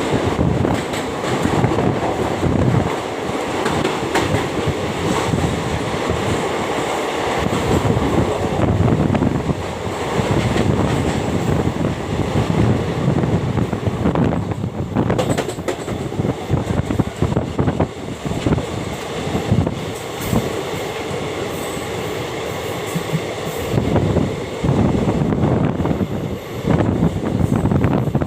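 Train running along the track: a continuous loud rumble and rattle of wheels on rails, surging unevenly, with occasional sharp knocks.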